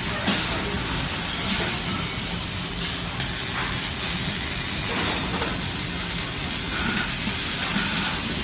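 A steady hissing rush of noise from robotic welding and dust-removal equipment, with a crackly texture and no break or change in pitch.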